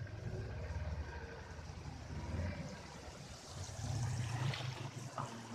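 Small river boat running through rapids: water rushing and splashing around the hull over the rocks, with the boat's motor rumbling low underneath.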